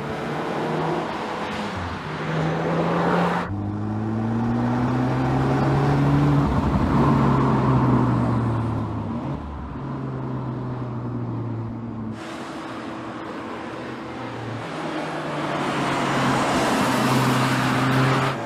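The 2020 Audi S3's turbocharged 2.0-litre four-cylinder engine and exhaust while driving. The engine note climbs in pitch under acceleration, then steps down as the gears change, more than once.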